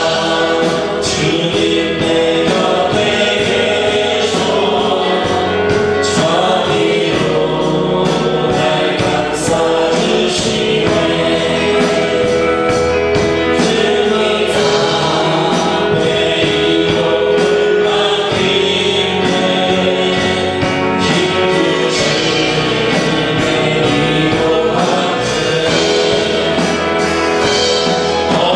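A congregation singing a worship song together, with instrumental accompaniment and a steady beat.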